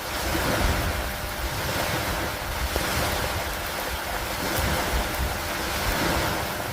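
Steady rain falling on a wooden dock, an even hiss with a continuous low rumble underneath and a few faint ticks of drops.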